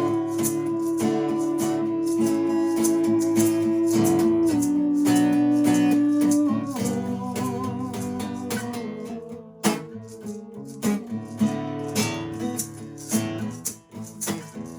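Instrumental break of a folk song: acoustic guitar strumming with shaker-type hand percussion keeping the rhythm, and a long held note over the first few seconds that steps down once.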